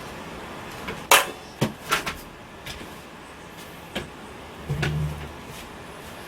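Tools and metal fittings handled while a window air conditioner is being installed: a handful of sharp knocks and clacks, the loudest about a second in, and a brief low hum about five seconds in.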